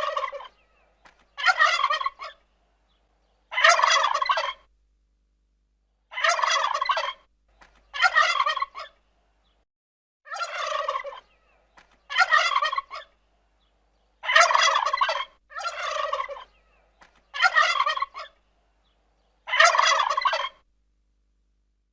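Domestic turkey gobbling over and over: about ten rattling gobbles, each about a second long, coming roughly every two seconds.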